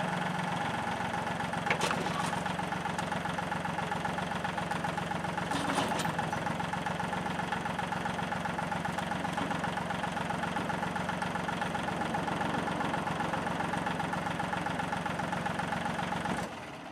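Engine idling steadily with an even, rapid pulse, and two sharp knocks, about two and six seconds in. It shuts off abruptly near the end.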